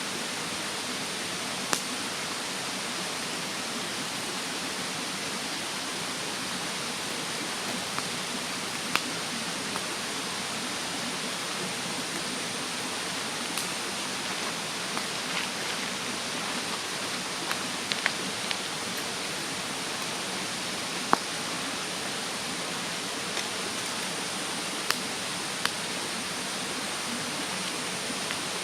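Wood fire in a fire stand crackling, with sharp single pops every few seconds, over the steady rushing hiss of a nearby mountain stream.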